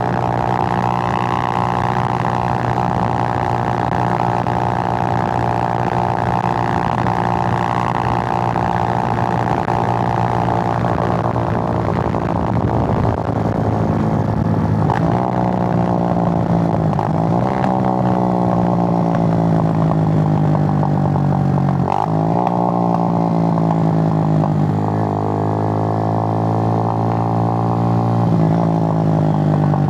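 Suzuki GN125's single-cylinder four-stroke engine running under way. The note is steady at first, then in the second half drops sharply and climbs again four times, as with gear changes while riding.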